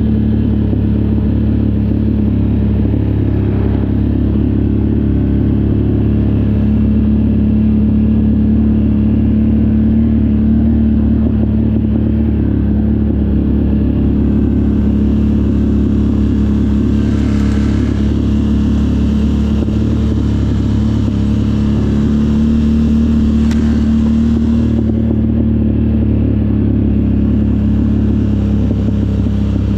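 Off-road vehicle engine running close up at a steady, unchanging speed while riding. A couple of short stretches of added hiss come about halfway through and again later.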